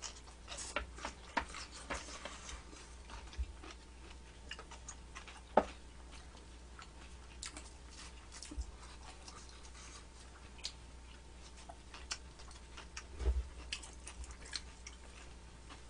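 Quiet eating sounds: scattered, irregular soft clicks and smacks of chewing, with a sharper click about five and a half seconds in.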